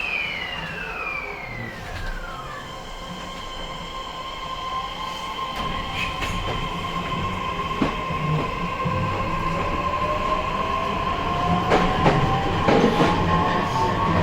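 Electric whine from the traction inverter and motors of an E131-1000 series EMU, heard inside the motor car as the train pulls away and gathers speed. A whine falls in pitch over the first couple of seconds. A steady hum follows, and from about halfway a motor whine rises steadily in pitch as the train speeds up, with occasional clacks from the wheels and rail joints.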